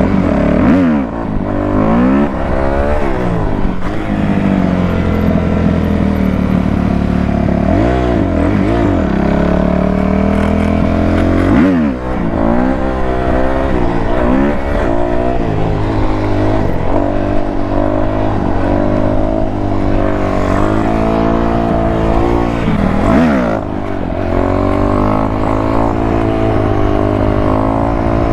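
Dirt bike engine revving under throttle, its pitch sweeping sharply up and down several times with steadier stretches between, as the bike is ridden for a wheelie.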